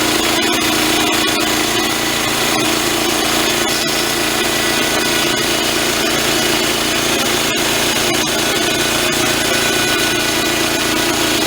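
Engine-driven band sawmill running under load, its band blade cutting steadily through a log.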